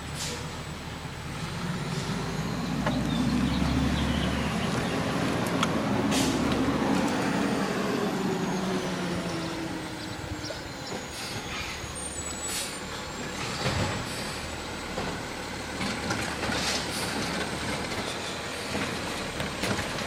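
Garbage truck running, its engine growing louder for several seconds and then easing off, with a faint high whine and several short, sharp hisses and knocks.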